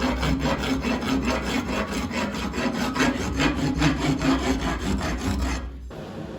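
Rapid, rhythmic rasping of abrasive work on steel over a steady low hum, stopping abruptly near the end.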